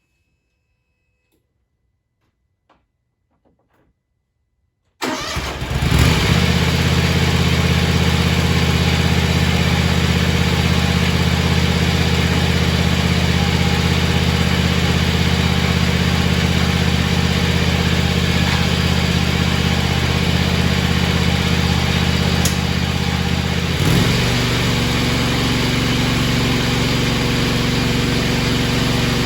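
John Deere X590 garden tractor's 25 hp two-cylinder Kawasaki fuel-injected engine starting about five seconds in after a few faint clicks. It catches almost at once and runs steadily. The running note changes about 24 seconds in.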